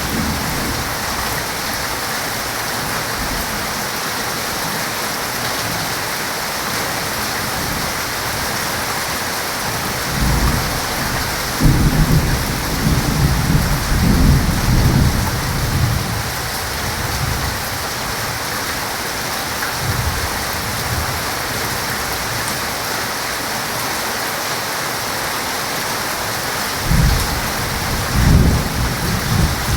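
Heavy rain falling steadily, with two spells of low rolling thunder: one about a third of the way in lasting several seconds, and another starting near the end.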